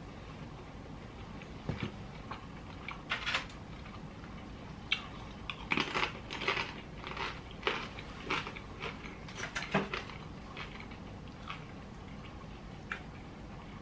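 A person chewing a piece of steak from a burrito bowl close to the microphone, with irregular soft wet clicks and smacks that bunch up in the middle and die away near the end.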